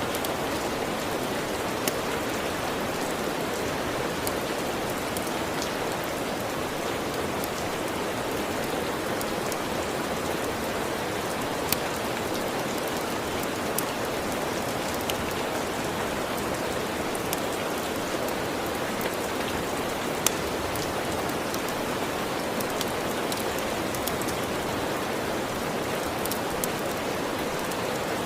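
Steady rain falling as an even hiss, with scattered sharp ticks, a few louder ones about twelve and twenty seconds in.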